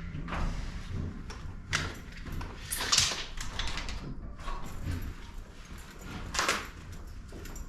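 Intermittent scrapes and knocks of garage door hardware being worked on: several short, harsh noises, the loudest about three seconds in and again near six and a half seconds, over a low hum.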